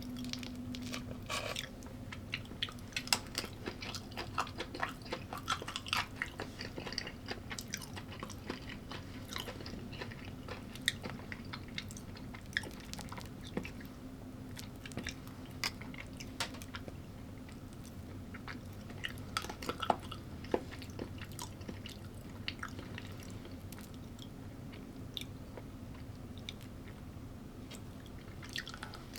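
A person chewing food up close, with many short clicks and bites at an irregular pace. A low, steady hum sits underneath.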